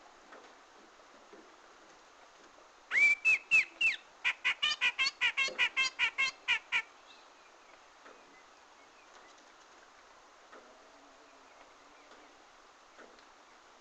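Cucak jenggot (grey-cheeked bulbul) calling once, about three seconds in: a few upward-sweeping notes followed by a fast run of about a dozen sharp notes, lasting about four seconds, over faint background hiss.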